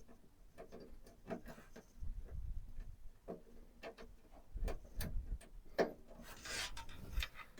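Hands handling PC parts: a run of irregular small clicks and taps, a few dull bumps on the work surface, and a brief rubbing scrape near the end.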